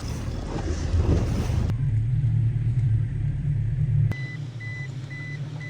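A steady low motor rumble, joined about four seconds in by a high electronic beep repeating about twice a second.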